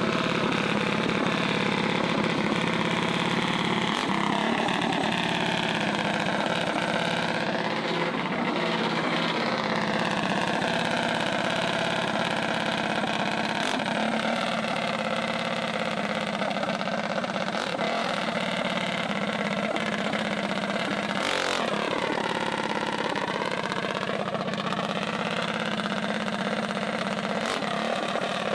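Mini bike engines running and revving, their pitch rising and falling again and again, with a sharp drop and climb about twenty seconds in.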